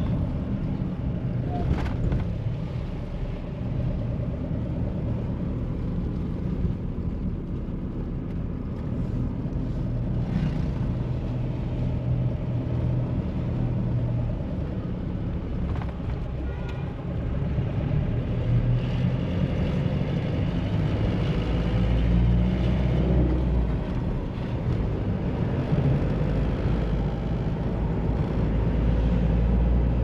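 Mahindra Bolero SUV being driven: its engine running with steady road and tyre noise, and a few brief knocks over bumps. In the second half the engine note rises slowly as it picks up speed.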